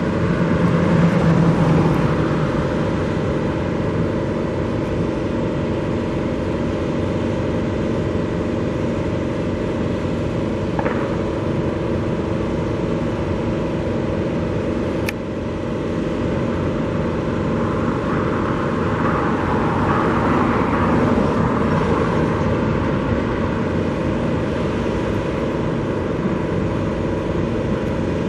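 Steady outdoor rumble of vehicle engines, with a faint constant hum and a single brief click about halfway through.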